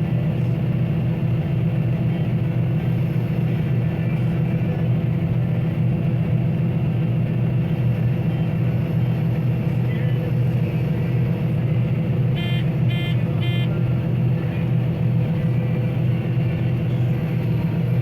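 Combine harvester running steadily under load while cutting wheat, a constant deep engine drone. Three short high-pitched electronic beeps sound in quick succession about two-thirds of the way through.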